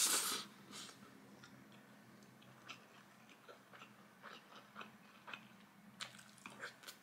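Faint close-up mouth sounds of someone eating brown rice and fried egg from a spoon: a short breathy sound as the spoonful goes in at the start, then soft wet chewing clicks and smacks, thickening near the end as another spoonful is taken.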